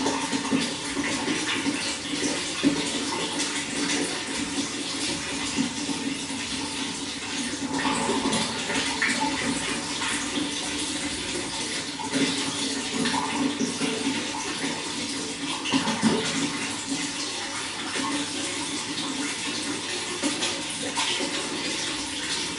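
Running water flowing steadily, with small brief splashes and gurgles here and there over the even rush.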